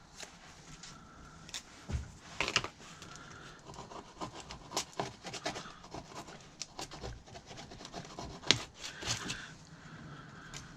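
Irregular scraping and rubbing on small metal clutch parts, with scattered clicks and knocks as they are handled, sharpest about two and a half seconds in and again near eight and a half seconds.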